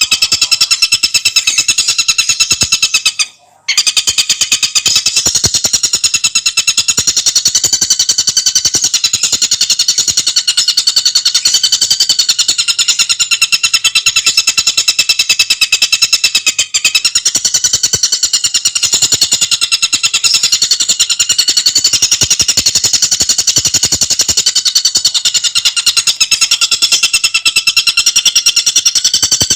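Tengkek buto bird singing a fast, continuous rattling trill of rapidly repeated high notes. The trill breaks off briefly about three seconds in, then runs on.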